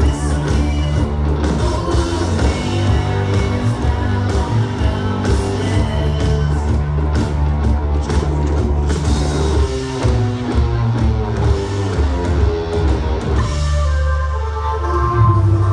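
Psychedelic rock band playing live: electric guitar, a heavy bass line and drum kit, with no vocals. Near the end the bass thins out briefly, then the full band comes back in.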